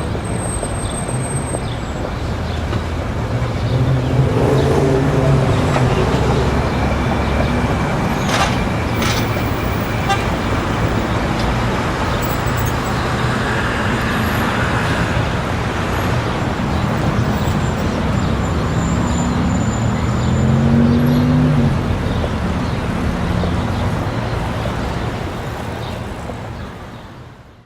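Busy city street traffic: a steady wash of passing cars with engines rising in pitch as vehicles pull away, and a car horn toot. The sound fades out sharply near the end.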